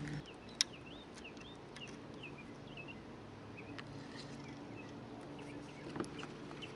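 Faint bird chirps, a quick run of short rising-and-falling notes in the first half, over a low steady hum. A single sharp click about half a second in.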